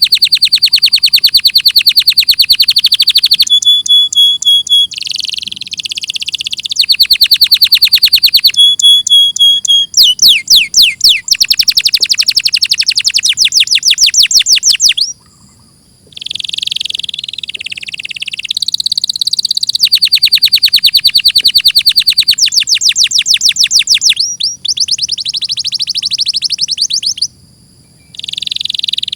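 Domestic canary singing: phrase after phrase of fast, high trills and rolls, each a quick run of repeated notes, with two short pauses, one about halfway and one near the end.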